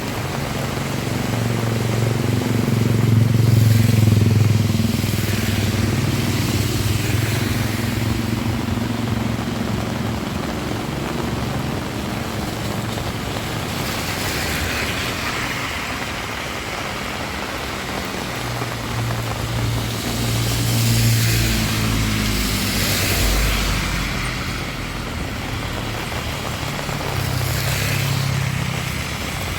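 Motor vehicles passing on a road in heavy rain: engine hum swells and fades three times, the longest pass in the first several seconds, another about two-thirds of the way through, and a shorter one near the end, over a steady hiss of rain.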